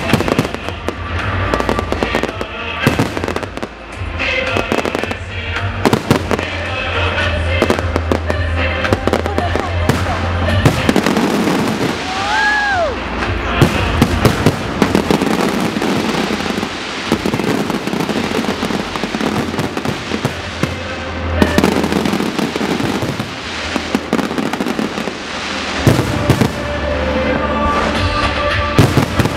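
A fireworks display bursting continuously, with a rapid, irregular run of bangs and crackles throughout.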